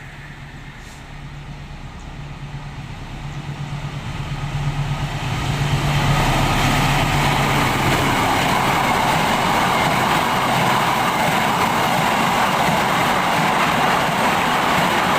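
Freight train led by a CC206 diesel-electric locomotive approaching, its engine hum growing louder. About six seconds in, the train passes close with a loud, steady rumble of wheels and wagons.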